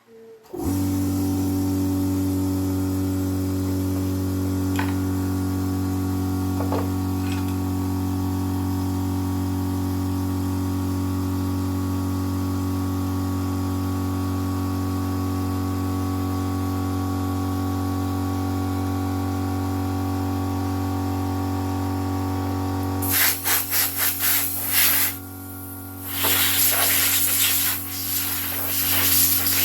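A steady machine hum switches on about half a second in and runs evenly. From about 23 seconds, rapid rubbing or sanding strokes sound over it, with a brief pause near 25 seconds.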